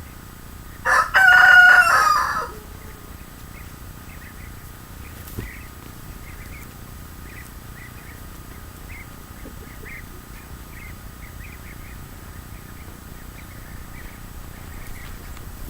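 A rooster crowing once, a single loud call of about a second and a half, followed by faint scattered high chirps.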